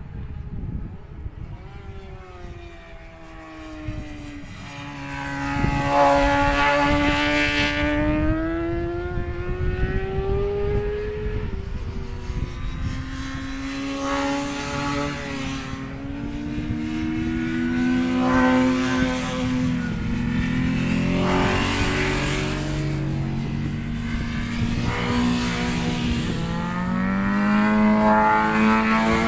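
Racing motorcycles lapping the circuit, their engines revving up and falling away as they pass, several overlapping, with wind buffeting the microphone.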